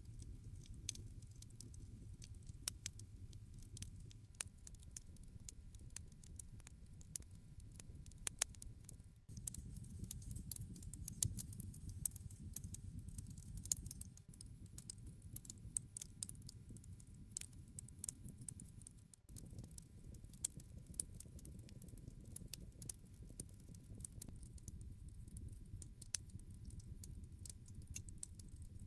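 Campfire crackling, with frequent irregular sharp pops and snaps over a steady low rumble of the flames.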